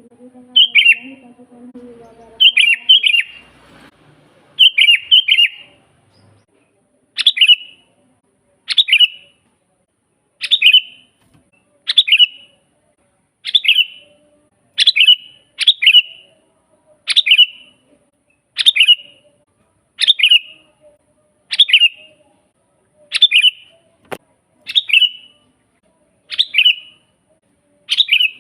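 Sooty-headed bulbul (kutilang) calling: a short, bright, falling call repeated about every one and a half seconds, given in quick pairs in the first few seconds.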